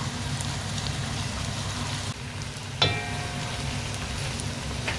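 Sliced onions frying in hot oil, sizzling steadily as they are stirred with a spatula. One sharp clink with a brief ring about three seconds in.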